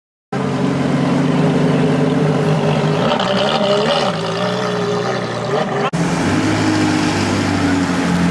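Car engine running, its pitch wavering a little around the middle, with an abrupt cut about six seconds in, after which it runs on steadily.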